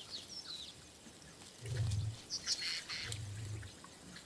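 Lions feeding at a kill growl twice, low and short, about two seconds in and again about a second later. Small birds chirp throughout.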